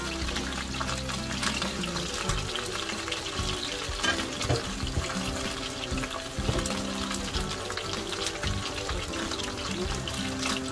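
Food frying in hot oil, a steady crackling sizzle, under background music.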